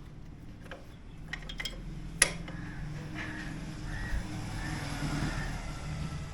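Metal hand tools clicking and clinking against a motorcycle's chain-adjuster bolts, with one sharp clink about two seconds in. A low steady hum sits underneath from then on.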